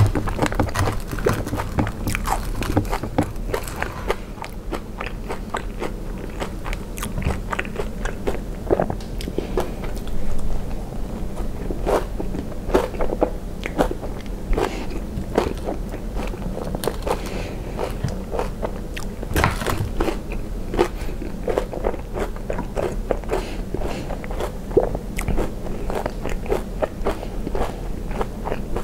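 Close-miked eating of fried ice cream: a dense run of biting, crunching and chewing on its fried coating, with a wooden fork and spoon cutting into it on the plate at the start.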